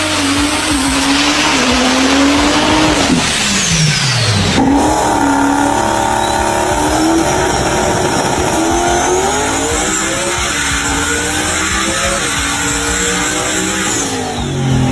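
High-performance car engine at full throttle. Its note holds and then drops off sharply about three seconds in. After an abrupt change, a second engine note climbs steadily in pitch through a long pull of about ten seconds.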